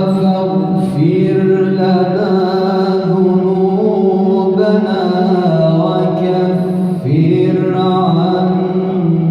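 A male Quran reciter chanting in a long, drawn-out melodic line. He holds and stretches the vowels, moving in steps between sustained notes with only brief breaks for breath.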